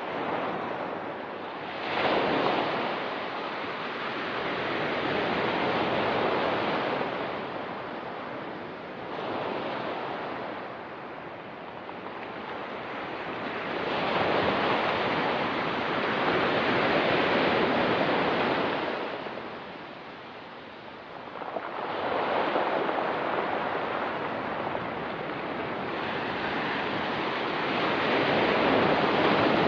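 Ocean waves breaking and washing up a pebble beach, each surge swelling and falling away over several seconds, with a few sharper breaks, one about two seconds in and another about twenty-two seconds in.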